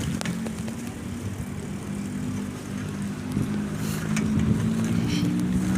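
Car engine running steadily in traffic, with road noise around it.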